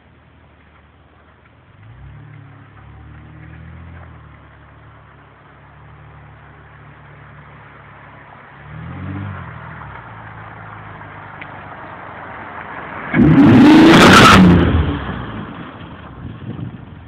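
2006 Ford Fusion's 3.0 L V6 running through a Magnaflow cat-back exhaust: a low idle that rises about two seconds in, a short rev near nine seconds, then a very loud full-throttle surge about thirteen seconds in as the car accelerates hard, fading over the last few seconds.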